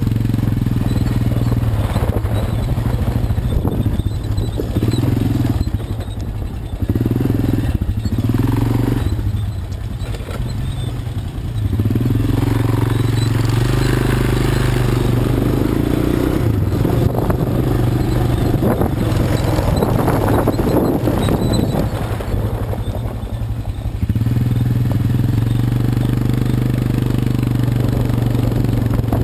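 ATV (quad bike) engine running while riding off road, the throttle opening and easing off several times, with the engine note dropping and then picking up again.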